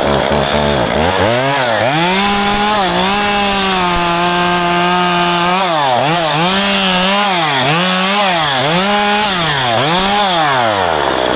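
Two-stroke chainsaw revving up and held at full throttle for a few seconds, then rising and falling in pitch about six times as it cuts through ficus branches during pruning. It drops back toward idle near the end.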